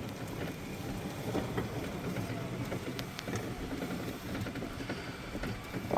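Steady low background rumble, with a couple of faint clicks about three seconds in.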